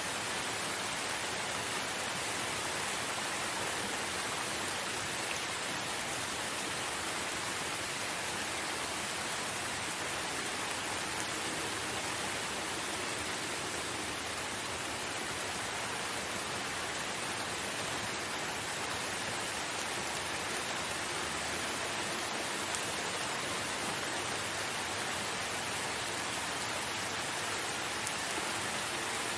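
Steady rain falling, an even patter of drops without pause or change.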